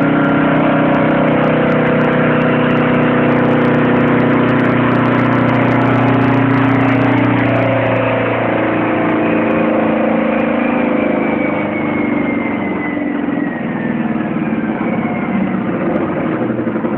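Baldos II 50cc four-stroke engine running hard on a dyno at steady high revs. About eight seconds in the revs fall off over a few seconds, and it runs lower and more unevenly near the end.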